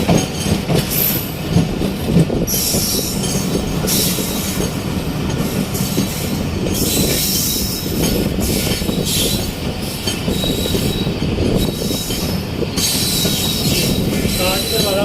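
Moving passenger train heard from aboard a coach: steady running rumble of the wheels on the rails with occasional knocks, and a thin high wheel squeal that comes and goes.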